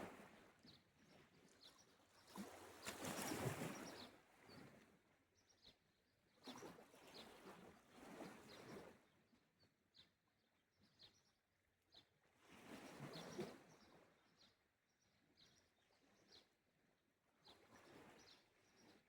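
Faint sea waves washing in on the shore every few seconds as soft swells of surf. Over them a bird gives short high chirps again and again.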